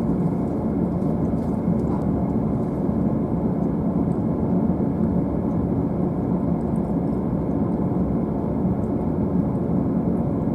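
Steady low hum inside the upper deck of a stationary JR East E531 series train car, the train standing with its equipment running before departure.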